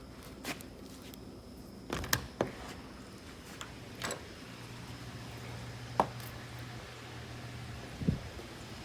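A few scattered light knocks and clicks over a faint steady low hum.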